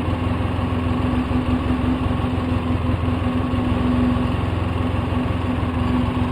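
2004 Polaris Sportsman 700 twin's four-stroke engine idling steadily with the choke fully off, at about 1,300 rpm, which the owner thinks is higher than it should be.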